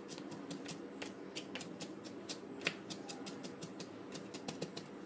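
Kitchen knife chopping fresh parsley on a plastic cutting board: a steady run of sharp taps as the blade strikes the board, about five a second.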